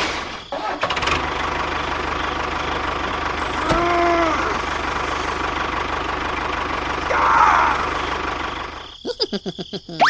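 A small engine running steadily with a fast even pulse; near the end it gives way to a quick series of knocks.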